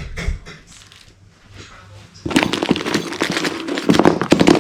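Dense, loud crackling and crinkling, starting about two seconds in and cutting off suddenly at the end.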